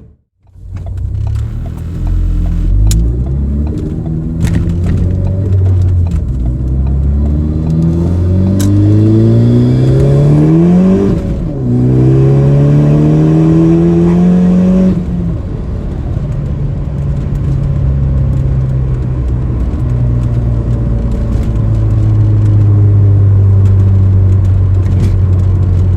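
Ford Focus ST's turbocharged 2.0-litre four-cylinder with an Invidia Q300 exhaust, heard from inside the cabin, accelerating hard. The engine note climbs steadily, dips briefly at a gear change about eleven seconds in, climbs again, then settles to a steady low drone at cruise from about fifteen seconds. Intake and engine are to the fore, with the exhaust a mellow, deep bass underneath.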